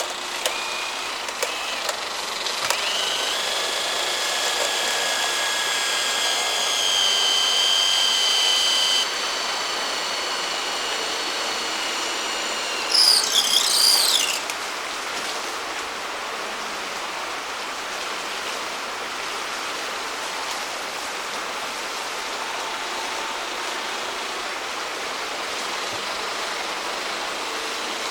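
A stream runs steadily. A high, steady whine holds for several seconds, then drops slightly in pitch, and a short, loud warbling call rises and falls about 13 seconds in.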